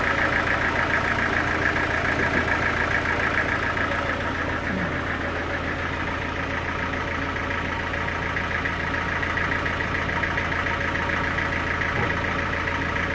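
Sawmill engine running steadily at idle, with a fast, even pulsing.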